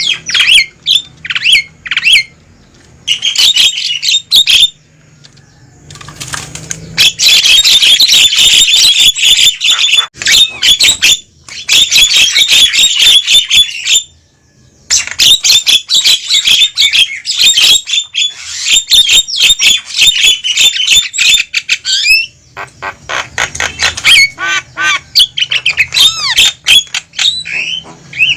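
Javan mynas calling noisily: long, dense bouts of harsh chattering and squawking, broken by two short pauses.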